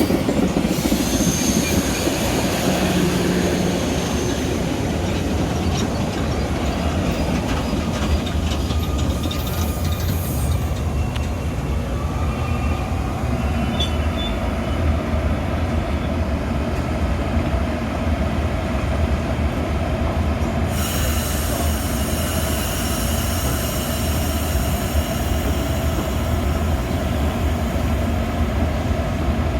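Metra commuter train in motion: a steady rumble of wheels on rail, with brief thin wheel squeals, and a hiss that grows brighter about two-thirds of the way through.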